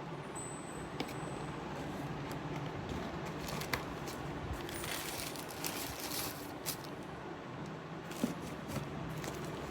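A shoe box and its wrapping being handled: scattered clicks, scrapes and short rustles, busiest around the middle, over a steady low background rumble.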